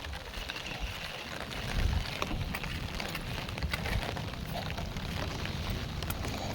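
Heavy monsoon rain pouring down steadily, with scattered sharp ticks of drops landing close by and a low rumble underneath.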